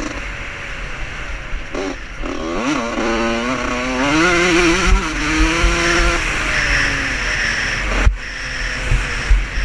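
Vintage motocross motorcycle engine accelerating hard, its pitch climbing from about two to four seconds in and then holding steady. A sharp knock comes near the end.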